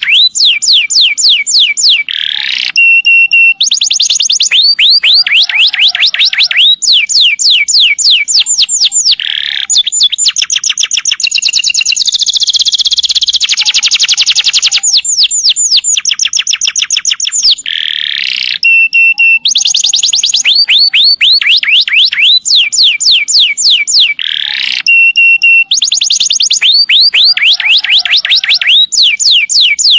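Domestic canary singing long rolling trills: rapid runs of repeated high sweeping notes in phrases of a second or two, with a longer, denser roll about twelve seconds in.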